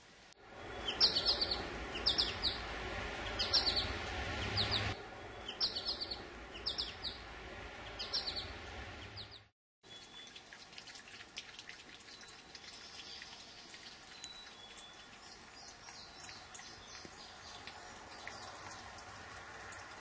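A small songbird chirps over and over, a short high call about once a second, over a steady hiss. After a brief dropout about halfway through, only faint, scattered high peeps remain.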